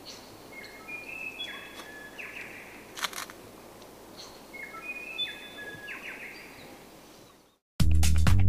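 A bird singing over a steady outdoor hiss: two similar phrases of stepped notes a few seconds apart, with a single sharp click between them. The outdoor sound fades out, and loud electronic dance music with a strong beat cuts in near the end.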